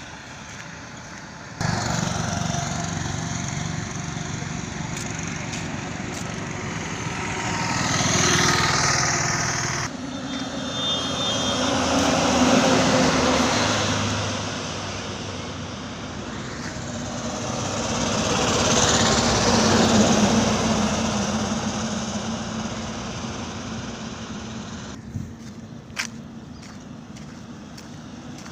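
Highway traffic: vehicles, trucks among them, passing one after another over a steady road noise, each swelling loud and then fading as it goes by; three loud passes stand out. The noise drops off near the end, with a single sharp click.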